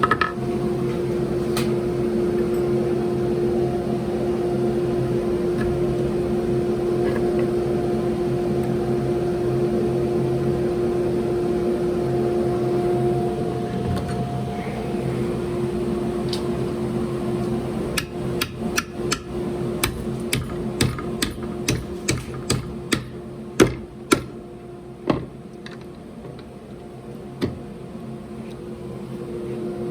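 A steady hum with a few held tones, then from about two-thirds of the way in a run of sharp taps and knocks, about two a second for several seconds, with a last spaced knock near the end, like hand tools on the wheel-mounting hardware.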